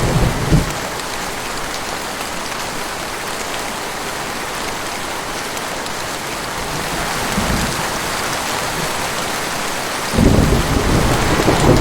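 Heavy rain with a steady hiss, with low rumbles of thunder: a short one a little past the middle and a louder, longer rumble starting near the end.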